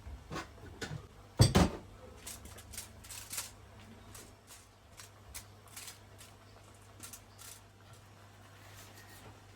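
Kitchen handling noises from cooking: a run of light clicks and taps, with one louder knock about a second and a half in, thinning out in the second half.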